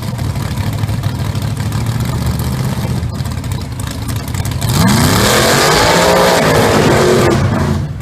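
1200 hp Chevy engine idling with a steady low rumble, then revved hard once about halfway through, the pitch climbing and easing back down before it drops to idle near the end.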